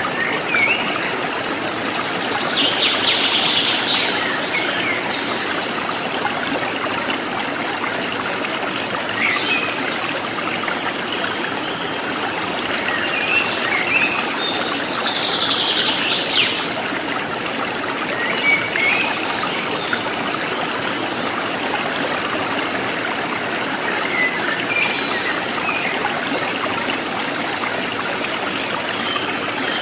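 Forest stream trickling steadily, with wild birds calling over it: two longer high calls, about 3 and 15 seconds in, and scattered short chirps.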